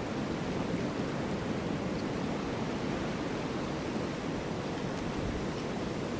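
Snowstorm wind blowing in a steady, even rush, heaviest in the low range.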